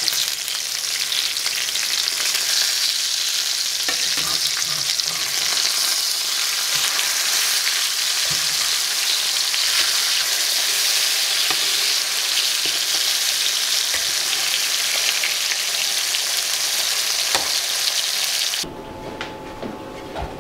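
Breaded mountain lion schnitzel sizzling steadily in hot coconut oil in a cast iron skillet, with a few sharp clicks of metal tongs as the cutlets are turned. About two seconds before the end the sizzling cuts off abruptly, leaving a much quieter stretch with a couple of light knocks.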